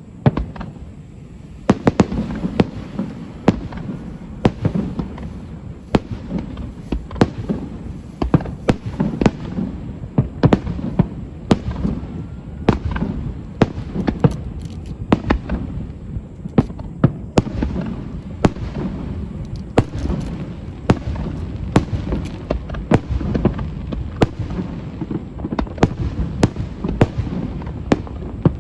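Fireworks display going off in a rapid barrage: many sharp bangs a second over a continuous low rumble.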